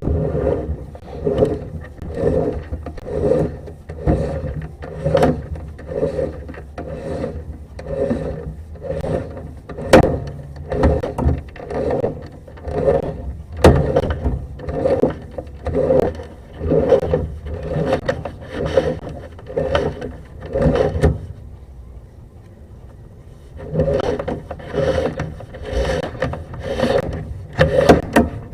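Sewer-camera push cable being pulled back out of the drain line hand over hand, scraping and rubbing against the pipe in even strokes about one and a half a second. The pulling stops for about two seconds roughly three quarters of the way through, then starts again.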